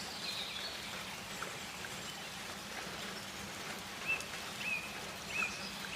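Rainforest ambience: a steady hiss with short bird chirps, a few in the first second and three more near the end, each a quick high note that drops slightly.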